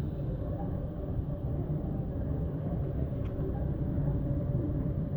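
Steady low rumble of an elevated CTA 'L' train and city traffic on the street below.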